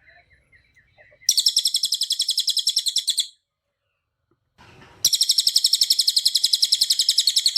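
Cililin songbird singing two long, high-pitched trills of rapidly repeated notes, the first starting about a second in and lasting about two seconds, the second starting about halfway through and running on; softer chirps come before the first trill.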